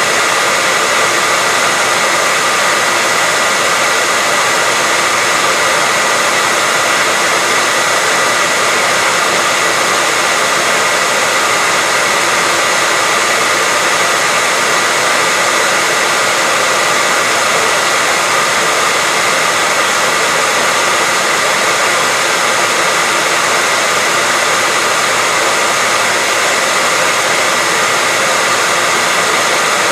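Hair dryer running steadily: a constant airy hiss with a steady high whine from the fan motor.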